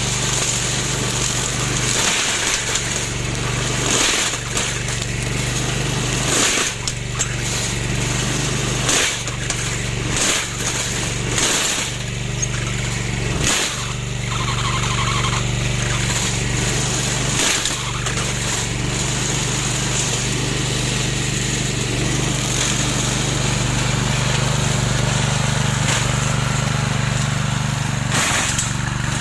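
Remote-controlled lawn mower's motor running steadily, with short dips and knocks every few seconds.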